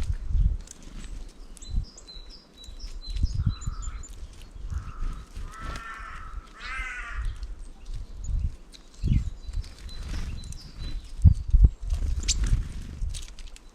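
Birds at a winter feeder: two harsh, crow-like calls come about five and a half and seven seconds in, with faint, thin high chirps between them. Repeated low thumps and knocks run underneath, the loudest near the end.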